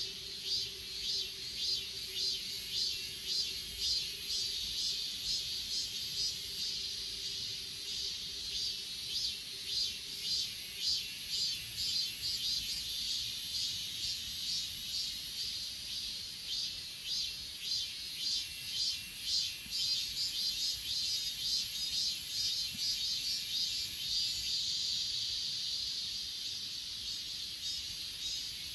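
A chorus of grass insects, crickets among them, chirring in quick repeated pulses over a steady high-pitched hiss-like drone.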